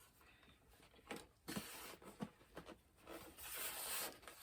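Plastic packaging rustling and crinkling in two longer stretches, with a few light clicks as parts are handled.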